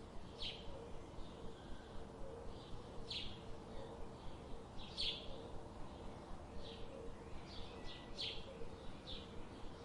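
Birds chirping: short, high chirps every second or two over a faint, steady background.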